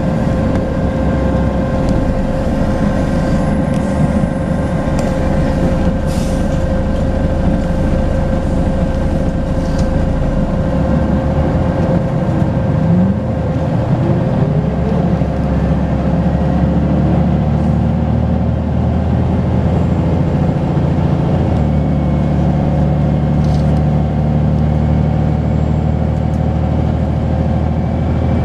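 Volvo B10BLE bus's diesel engine running under way with a steady turbo whistle. The pitch climbs about halfway through as the engine picks up, and the engine note steps about three quarters in.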